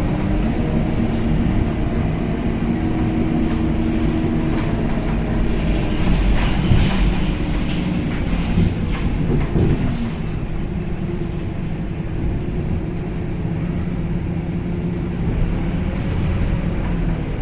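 Cabin noise of a Scania K270UB city bus on the move: a steady engine drone and road rumble, with a burst of rattling about six to seven seconds in and a short change in engine pitch near ten seconds.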